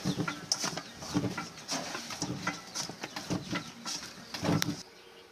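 Roti dough being kneaded by hand on a work surface: a run of irregular soft thumps and slaps, about two a second.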